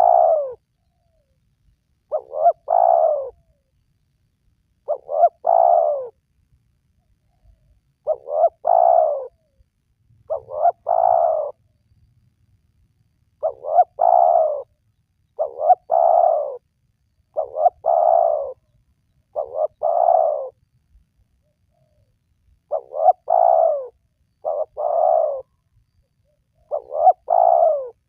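Spotted dove (tekukur) cooing, a phrase every two to three seconds. Each phrase is a short note followed by a longer coo that falls in pitch, with quiet between phrases.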